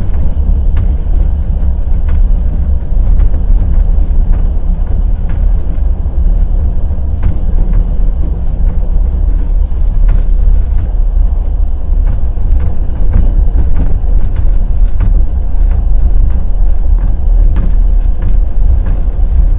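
Passenger express train running, its wheels clacking on the rails over a steady loud rumble.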